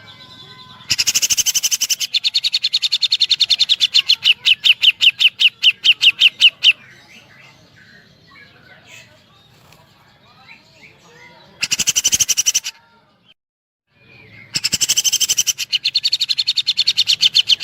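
Grey-cheeked bulbul (cucak jenggot) singing fast rattling runs of sharp, evenly repeated woodpecker-like notes. A long run spaces out toward its end, a short burst follows, then another fast run starts near the end.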